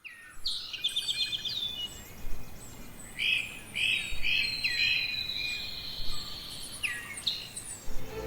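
Several birds singing and calling together: a quick trill near the start, a run of four short repeated chirps, and a long, steady high whistle held for a few seconds.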